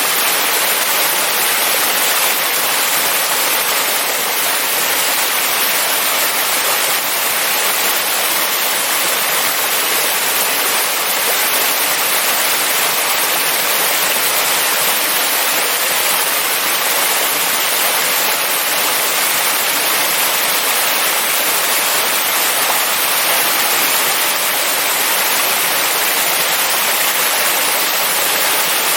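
Small waterfall rushing steadily, a constant hiss of falling water.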